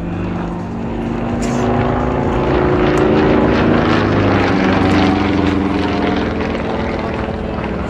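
Sukhoi Su-26MX aerobatic plane's nine-cylinder Vedeneyev M-14P radial engine and propeller running hard in flight, its pitch shifting as it manoeuvres. It grows louder toward the middle, then eases off a little.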